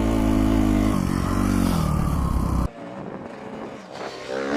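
Dirt bike engine running at a fairly steady speed, cutting off abruptly a little under three seconds in. A quieter stretch follows, then engine pitch rises near the end as the throttle is opened.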